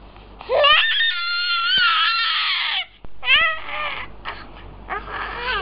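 A five-month-old baby's high-pitched squeal that rises at the start and is held for about two seconds. A shorter rising squeal follows, then softer fussy noises near the end.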